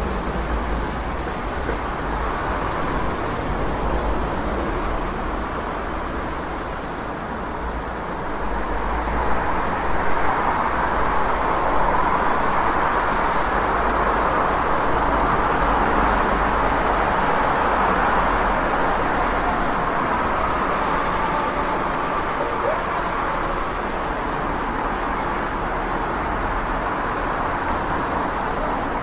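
City street traffic: a continuous wash of passing cars over a low rumble, growing louder about a third of the way in as heavier traffic goes by, then easing slightly.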